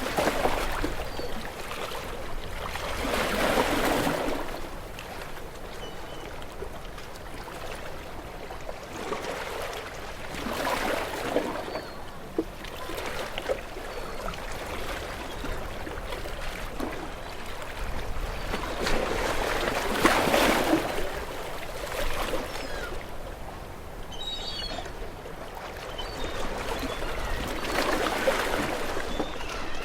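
Gentle waves washing onto a shore, each wash swelling and fading away, four of them about eight seconds apart.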